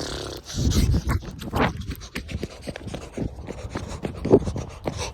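A dog panting close to the microphone, in quick irregular breaths.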